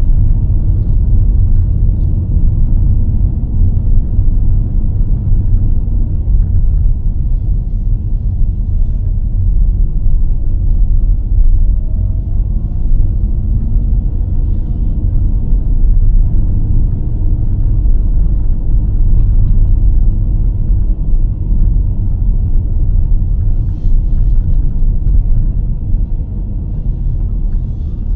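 Car driving along a road: a steady low rumble of engine, tyre and road noise.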